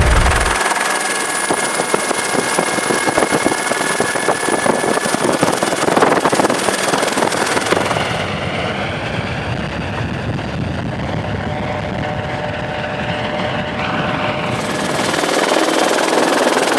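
Helicopter rotor and engine noise, a continuous fast chopping whir. The high hiss drops away for about six seconds in the middle, then returns.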